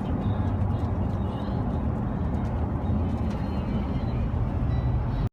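Road and engine noise heard inside a moving passenger car: a steady low rumble that cuts off suddenly at the end.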